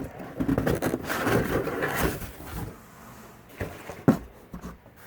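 Cardboard packing rustling and scraping as it is pulled out of a parts box, then a few separate knocks, the sharpest about four seconds in.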